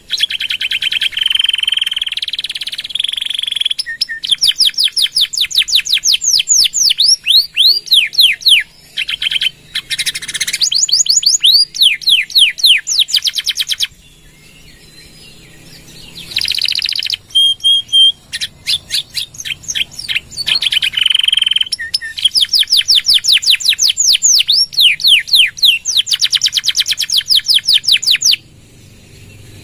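Domestic canary singing loudly and continuously. Its song is built from fast runs of repeated downward-sweeping notes and rolling trills, with a few held whistled notes, and it breaks off briefly about halfway through and again near the end.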